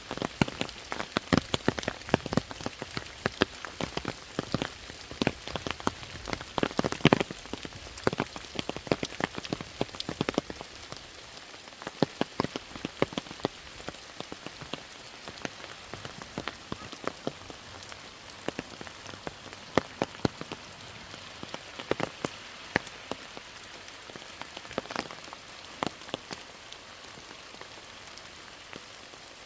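Rain falling: a steady hiss with many separate drops striking close by. The drops come thickest for the first ten seconds or so, then thin out.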